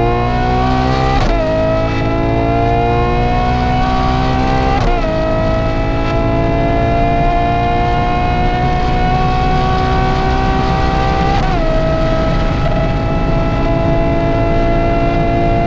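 Ferrari Purosangue's V12 breathing through a Novitec race exhaust, accelerating through the gears: the engine note climbs, drops abruptly at an upshift about a second in, again near five seconds and again near twelve seconds, each climb slower than the one before.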